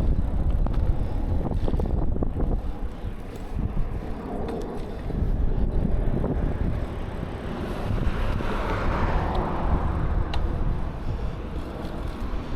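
Wind rumbling on the microphone of a camera riding along on a bicycle, with road noise underneath and a few faint clicks. A broader rushing sound swells up about eight seconds in and fades a couple of seconds later.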